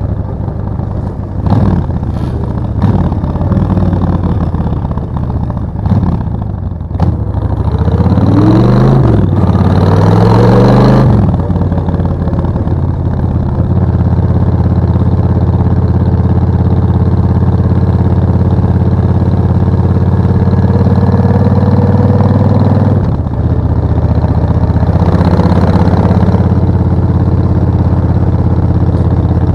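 Suzuki VS1400 Intruder's V-twin engine on the move: it revs up through the gears about eight to eleven seconds in, then runs at a steady speed, with a brief drop in revs a little past twenty seconds.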